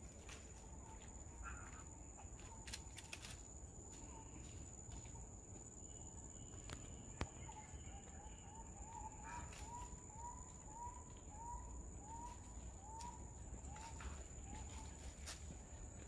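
Faint outdoor ambience: a bird calls a series of about a dozen short rising notes, roughly two a second, starting about halfway through, over a steady thin high insect whine and scattered clicks and rustles of dry leaves.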